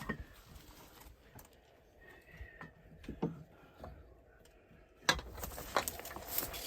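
Scattered clicks and small metallic knocks of hand tools being worked on machinery, busier and louder from about five seconds in.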